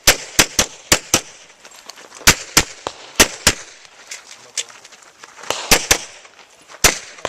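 Rapid pistol fire: sharp shots, mostly in quick pairs, in bunches separated by short pauses, with fainter single shots between them.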